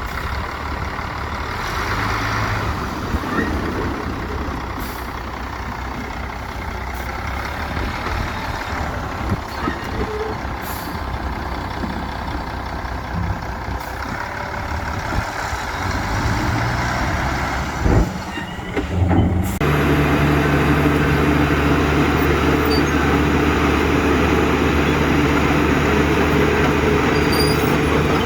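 Heavy diesel engines of dump trucks and a bulldozer working, uneven at first, with a sharp knock about two-thirds of the way through. It then changes abruptly to a louder, steady engine note.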